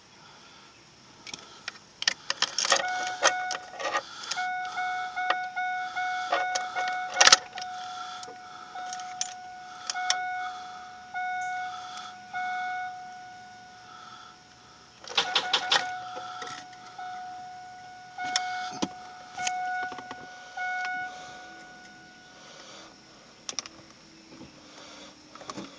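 1999 Firebird 3.8 L V6 failing to start: rapid clicking in two spells as the key is turned, while the engine does not crank. A steady electronic chime sounds on and off throughout. The owner takes the clicking for a bad starter, one that only works after being hit with a hammer.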